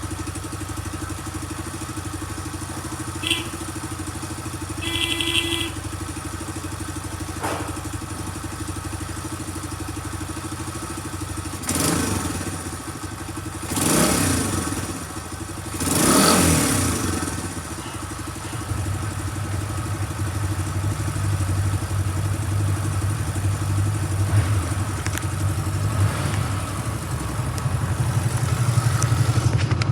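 Honda Benly CL90's small single-cylinder four-stroke engine idling, then blipped three times in quick succession, each rev rising and falling back to idle. After that it runs louder and fuller. Two short beeps sound early on.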